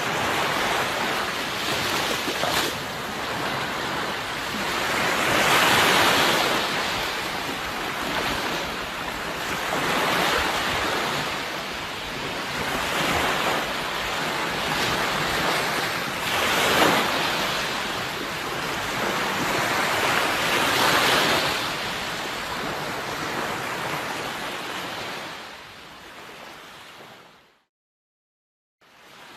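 Sea waves surging onto a shore, the surf swelling and easing about every four seconds. Near the end the sound fades out to silence for about a second and a half, then comes back.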